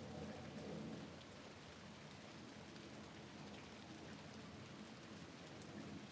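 Soft, steady rain falling on a window, with scattered drops ticking now and then.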